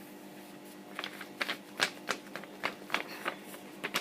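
A sheet of A4 printer paper being handled and folded: a run of short, crisp rustles and crinkles starting about a second in.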